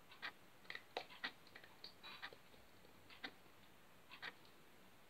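Faint, scattered soft clicks and sticky squelches of slime being handled, poked and bounced on a chopping board.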